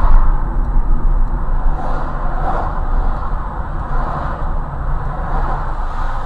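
A car driving, with a loud steady rumble of engine and road noise.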